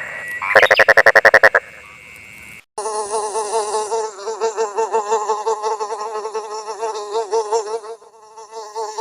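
A short, rapid rattling call about half a second in. Then, after a cut, a steady insect buzz that wavers in pitch from about three seconds on, dipping briefly near the end.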